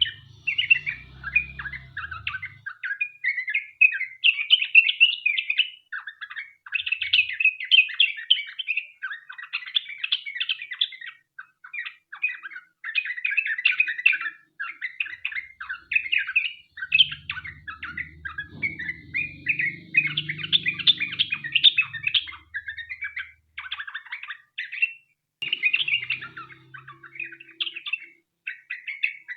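Yellow-vented bulbul singing a long, almost unbroken song of fast, bubbling chattering notes, with only brief gaps.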